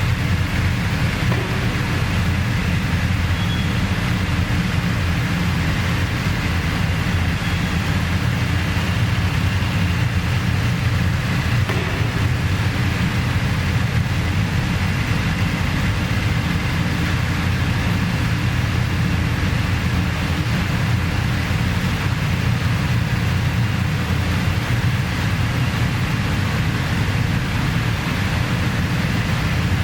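Steady drone of a motor vehicle running at a constant speed, engine and road noise, with no change in pitch or level.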